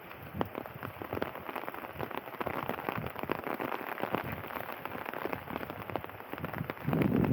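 Rain falling, with many individual drops striking close to the microphone in a dense patter, and a louder low rumble near the end.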